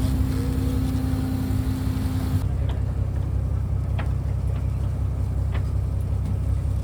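Fishing boat's engine running steadily with a low drone. A higher steady hum cuts off about two and a half seconds in, and a few faint knocks follow.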